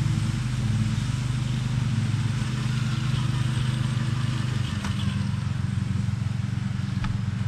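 A steady low machine hum with an even pitch that drops slightly about two-thirds of the way through, with a few faint light clicks near the end.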